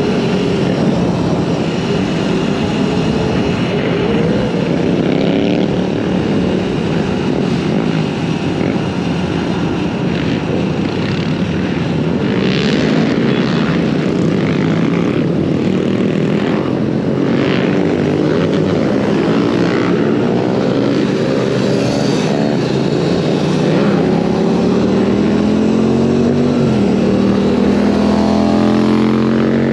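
Dirt bike running steadily while being ridden, with rushing wind noise and scuffing over the drone. Its pitch climbs over the last few seconds as it speeds up.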